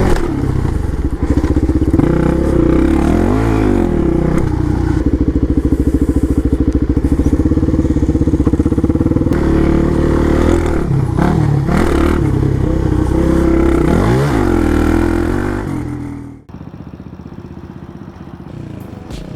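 Dirt bike engine running while ridden, its pitch rising and falling with the throttle. It stops abruptly about three-quarters of the way through, leaving only quiet background noise.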